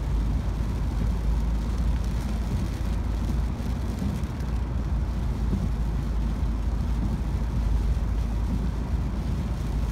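Steady road noise inside a moving car's cabin on a wet road: a low, even rumble of engine and tyres with a light hiss.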